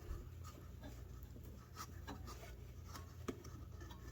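Faint, scattered clicks and light scratching of hands and tools working at a lawn mower's carburetor and fuel line, with one sharper click about three seconds in, over a low steady hum.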